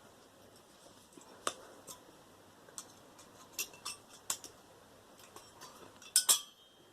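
Scattered light metallic clicks and taps from hand tools and loose parts as a microwave is dismantled for scrap, with a louder cluster of clinks near the end.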